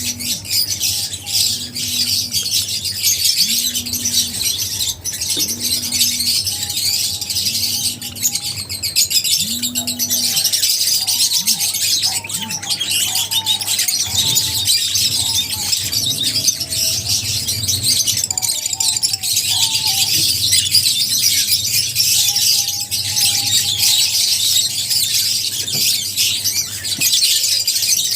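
A flock of lovebirds chirping and chattering continuously, a dense wall of many overlapping high-pitched calls.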